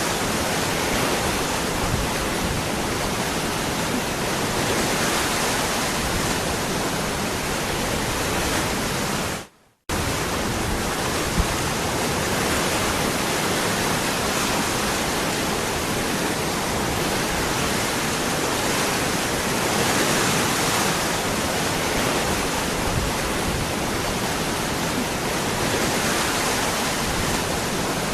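Waterfall rushing steadily. About nine and a half seconds in it fades out to silence for a moment, then comes back abruptly.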